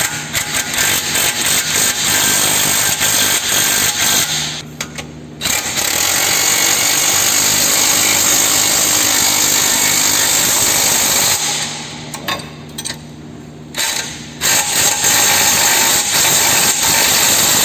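Power tool driving 10 mm nuts down tight, in three long runs with short pauses between, and a few brief bursts before the last run.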